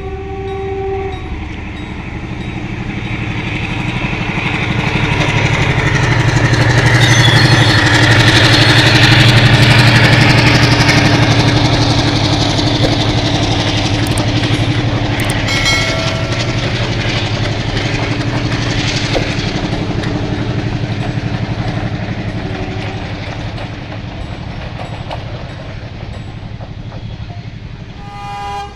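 Diesel-hauled passenger train passing close by: the engine's low drone and the wheels running on the rails build up, peak as the locomotive goes by, stay loud while the coaches roll past, then fade away. A short horn note sounds at the very start.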